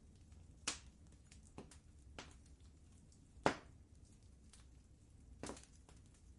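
Quiet wood fire crackling in a fireplace over a low steady rumble, with three sharp pops, the loudest about halfway through, and scattered fainter ticks.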